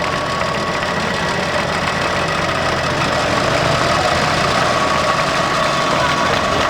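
An engine idling steadily, with a constant rumble and a steady whine over it.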